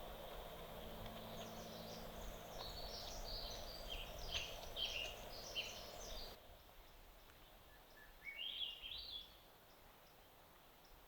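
Birds chirping in a series of short high notes, then one rising phrase of song about eight seconds in. Under the first part runs a steady low hum that cuts off abruptly about six seconds in.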